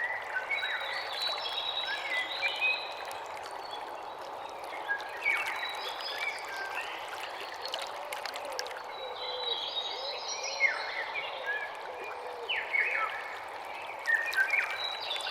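Several songbirds chirping and singing in quick clusters of short notes, over a steady hiss of moving water.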